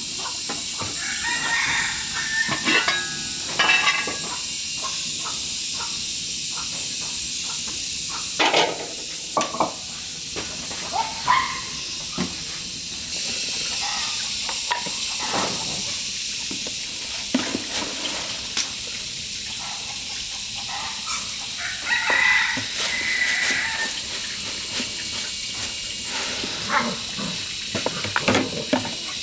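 Chickens clucking and calling now and then over a steady high-pitched hiss, with scattered knocks and clicks.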